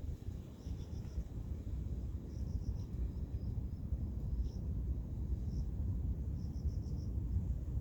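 An insect chirping in short clusters of three or four quick high pulses, repeating every second or two over a steady low rumble.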